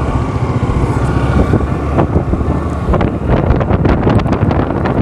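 Wind buffeting the microphone and road noise while riding a scooter on the road, with the engine's low hum underneath and crackling gusts growing stronger from about three seconds in.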